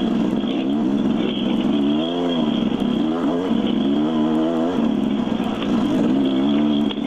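Dirt bike engine running while being ridden, its revs rising and falling with the throttle, with a steady high whine above it.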